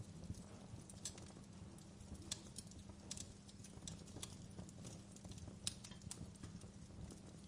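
Wood fire crackling: irregular sharp pops and snaps, a few every second, over a steady low rumble of the flames.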